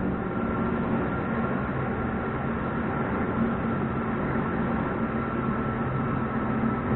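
Steady in-cabin highway noise of an Audi RS5 cruising: wind and tyre noise over a faint low hum from its 4.2-litre V8 through a valved cat-back exhaust with the valves closed.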